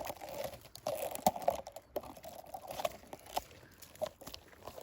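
Gorse and bramble crackling and snapping in a string of irregular sharp clicks as the branches are pushed and pulled back into place by hand.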